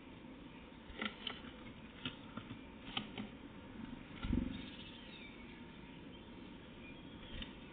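Small birds at a feeding spot: scattered light taps and clicks, a dull thump about four seconds in, and a few faint high chirps.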